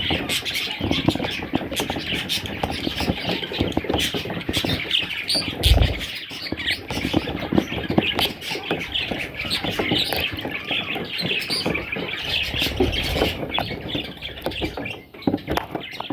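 Budgerigar chicks calling continuously, many overlapping calls at once, with a low thump about six seconds in.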